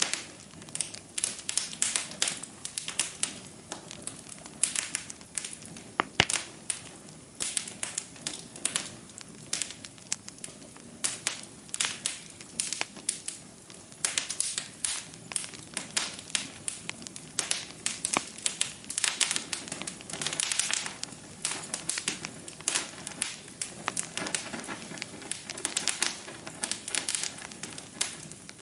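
Wood fire crackling in a fireplace: irregular sharp pops and snaps over a soft steady hiss, with one louder pop about six seconds in.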